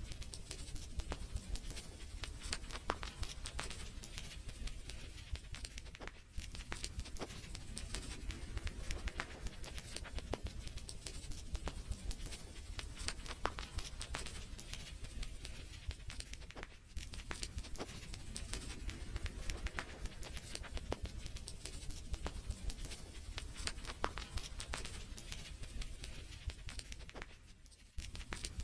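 Wood fire crackling in a fireplace: a steady stream of sharp pops and snaps over a low hiss and rumble, easing off briefly a few times.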